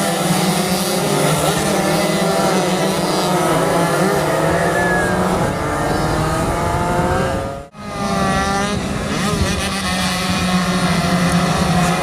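Several two-stroke underbone racing motorcycles running at high revs, their engine notes rising and falling as they accelerate, shift and pass. The sound cuts out abruptly for a moment about three-quarters of the way through, then resumes.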